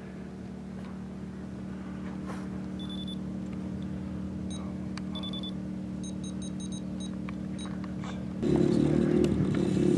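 Electric RC helicopter powering up: a steady motor hum that slowly grows, short high electronic beeps (two single beeps, then a quick run of about six), and about eight and a half seconds in a much louder whirring starts abruptly.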